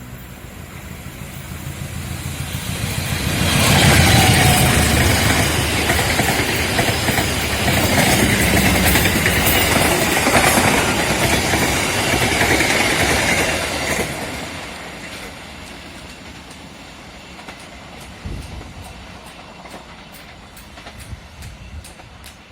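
A diesel-hauled passenger train passes close by. The noise builds over the first few seconds and is loudest for about ten seconds as the locomotive and coaches rush past, then drops away, leaving scattered wheel clicks near the end.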